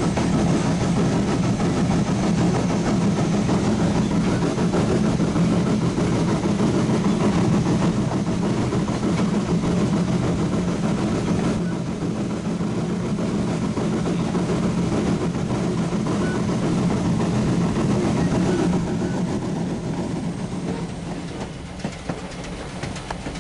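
Steady rumble of a moving train heard from on board, wheels rolling on the rails. The level dips a little about halfway through and again near the end.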